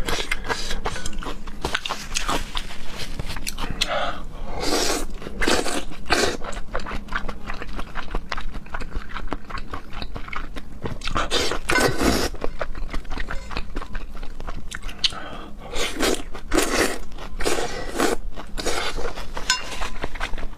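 A person biting and chewing food: a run of quick clicks and smacks, with louder flurries about a quarter, half and four-fifths of the way through.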